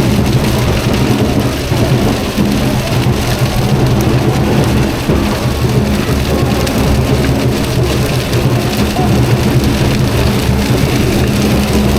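Large bonfire burning fiercely: a steady, loud rushing rumble of flames with scattered crackles.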